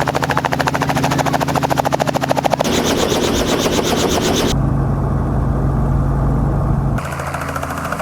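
Helicopter running close by: fast, even rotor chop over a steady low engine hum. The sound changes abruptly a few times, and in the middle stretch the chop gives way to a duller low drone.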